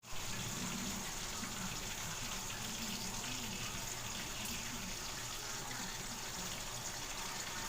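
Water running steadily from a kitchen tap, a constant rushing hiss that starts suddenly.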